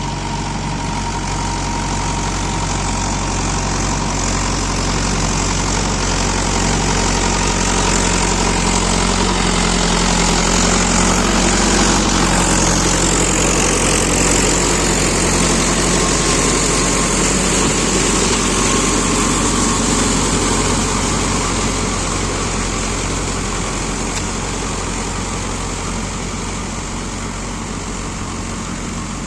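Mahindra Yuvo 585 tractor engine running steadily, with a broad rushing noise over it. It grows louder toward the middle and eases off near the end.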